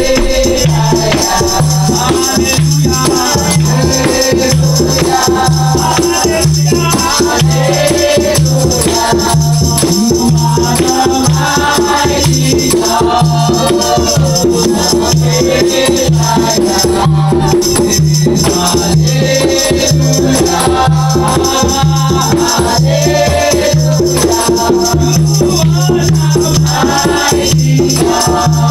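Worship music: voices singing over a live band, with a shaker and a steady low beat about three pulses every two seconds.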